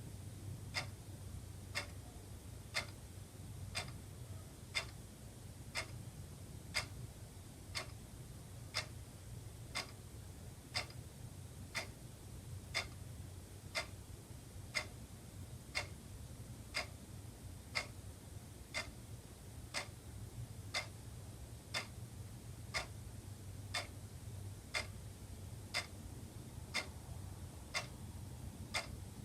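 Wall clock ticking steadily, one tick a second, over a faint low hum.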